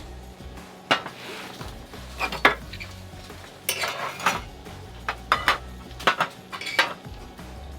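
Eating utensils clicking and scraping against a dish, in short clusters of sharp taps.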